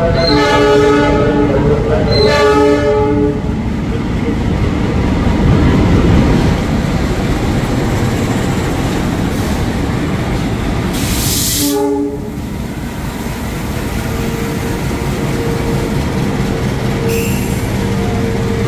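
KAI CC 206 diesel-electric locomotive sounding its multi-tone horn in two blasts as it runs in hauling a passenger train, then the locomotive and coaches rumbling past. About eleven seconds in there is a sharp hiss of air and a very short horn toot. Later a steady high squeal comes from the wheels.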